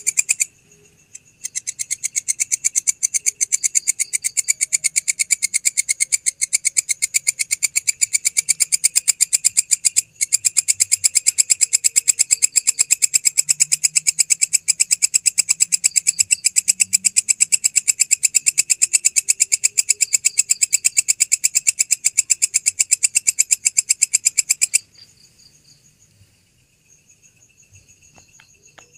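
Grasshopper stridulating close to the microphone: a loud, rapid, high-pitched pulsing buzz that breaks off briefly near the start and stops about 25 seconds in, leaving fainter chirping insects behind.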